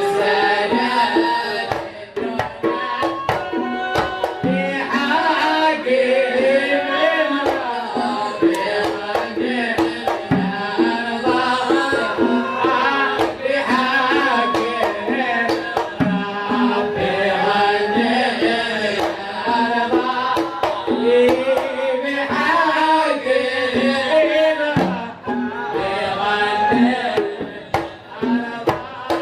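Devotional samā' singing: voices chanting a melodic religious song, accompanied by steady hand-drum beats throughout.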